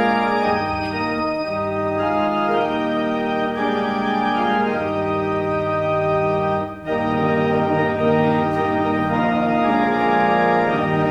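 Organ playing slow, sustained chords that change every second or so, with a brief break about seven seconds in.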